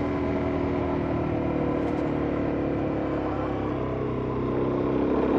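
Suzuki DR-Z400S dual-sport motorcycle's single-cylinder four-stroke engine running steadily under way, its level easing a little in the middle and picking up again near the end.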